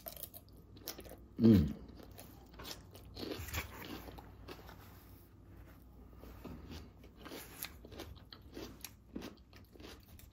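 Close-up chewing of a crunchy raw vegetable salad of romaine, red cabbage and carrots: irregular crisp crunches throughout, with a short hummed "mm" of enjoyment about a second in.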